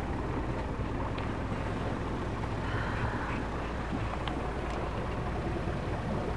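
Steady low rumble with wind noise aboard a sailing yacht, with a few faint ticks.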